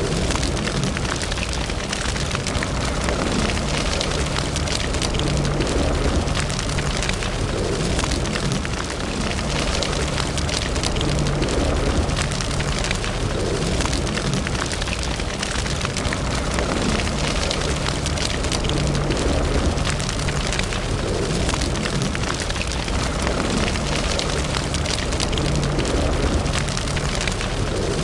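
Wood fire in a fireplace crackling steadily, with dense small pops and snaps over a continuous low rumble of the flames.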